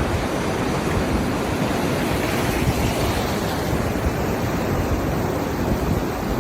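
Steady, loud rushing noise with no tone or rhythm in it.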